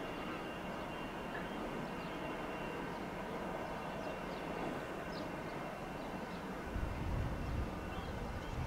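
Train running away into the distance on electrified main line track, a steady, fairly quiet rumble. About seven seconds in a low, uneven rumble rises under it.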